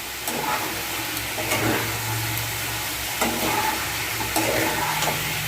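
Spatula stirring spiced chicken in a pan over the heat, with a steady sizzle and a scrape or knock against the pan every second or so.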